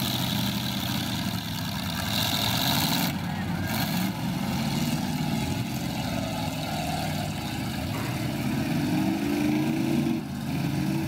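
Demolition derby car engines running, one revving up with a rising pitch about nine seconds in.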